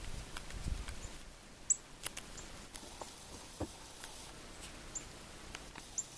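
Dog bounding through deep snow: faint, scattered soft crunches and clicks, with a few brief high chirps about a second and a half in and again near the end.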